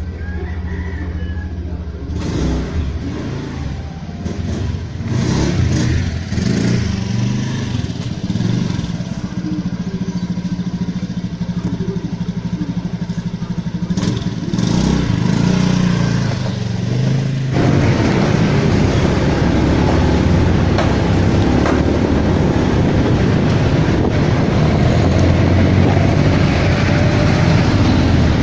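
Motorcycle engine running under way, its pitch rising and falling with the throttle. About two-thirds through, a louder, steady rush of wind and road noise takes over as it rides on.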